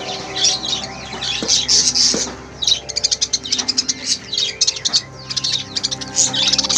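Lovebirds chirping and chattering loudly in quick high-pitched calls, with a fast run of clipped chirps in the middle.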